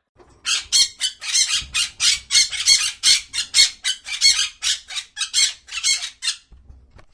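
A bird giving a rapid run of harsh squawks, about three or four a second, stopping about a second before the end.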